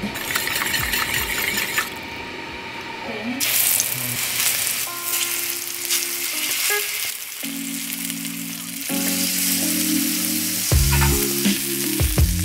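Vegetables searing in hot fat in a steel frying pan, sizzling steadily, louder from about three seconds in, with occasional tongs clicks as pieces are turned. Background music plays underneath.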